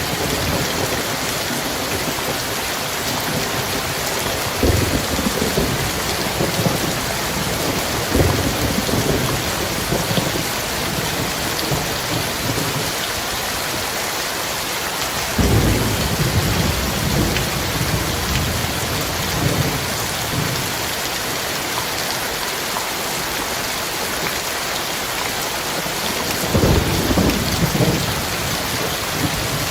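Heavy rain pouring steadily, with several rolls of thunder rumbling low beneath it. The longest roll comes about halfway through and another near the end.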